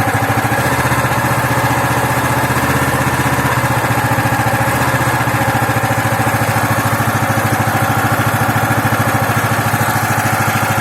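Loncin 15 hp single-cylinder four-stroke engine running steadily with an even, rapid beat on its first run.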